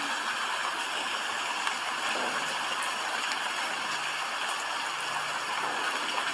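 Steady rain: an even hiss with faint scattered patter.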